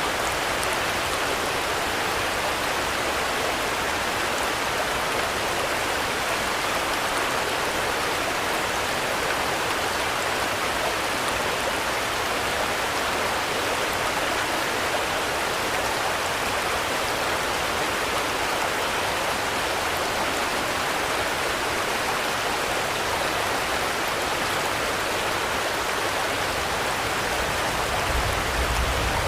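Steady, dense rainfall as an even hiss, with a brief low rumble about a second before the end.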